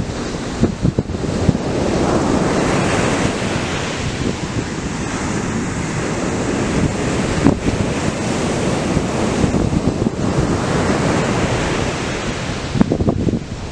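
Atlantic surf breaking and washing up the beach, a loud continuous rush that swells about two seconds in. Wind buffets the microphone with low rumbles at the start and again near the end.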